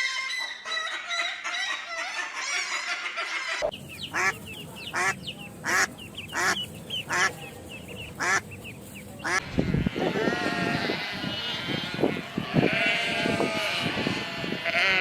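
Domestic geese honking: after a few seconds of another animal's wavering calls, short honks come about twice a second, then a flock of geese calls over one another, with some knocking and scuffling.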